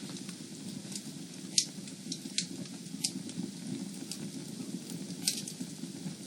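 Fire in a fireplace crackling: a steady low rumble of flames with sharp, irregular pops, the loudest about a second and a half in and another near five seconds.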